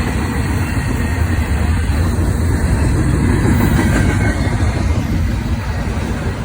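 Freight train of autorack and intermodal cars rolling past, with a steady loud rumble of steel wheels on the rails.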